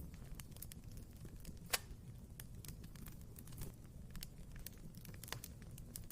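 Wood fire burning in a fireplace: a steady low rumble of the flames with frequent irregular crackles, and one sharp louder pop a little under two seconds in.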